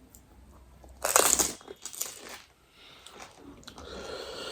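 Crunchy snack food being bitten and chewed close to the microphone: a loud crunch about a second in, a second shorter crunch just after two seconds, then softer chewing.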